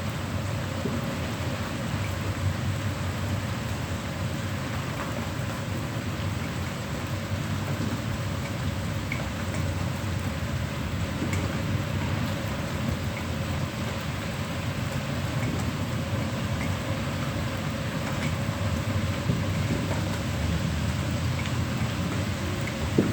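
Rain falling steadily during a thunderstorm, with a low rumble underneath and scattered small drop ticks.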